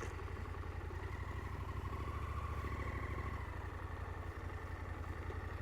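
KTM 890 Adventure's parallel-twin engine running steadily at low revs, a low pulsing rumble with a faint whine that swells slightly a couple of seconds in.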